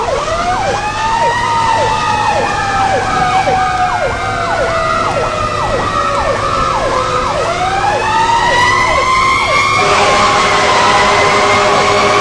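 Emergency vehicle sirens: an electronic siren in a fast yelp, about two falling sweeps a second, over a slow wailing siren that winds down over several seconds and then winds back up. About ten seconds in the yelp stops and a steady blaring horn-like tone takes over under the wail.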